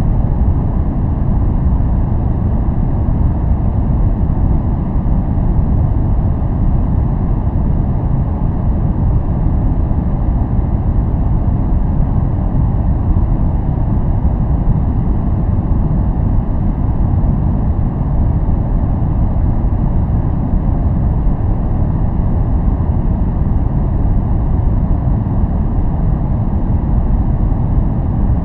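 Continuous noise track of the kind sold as white noise for focus, steady and unchanging, with most of its weight low down and little above about 1 kHz, so it sounds as a deep, even hiss rather than a bright one.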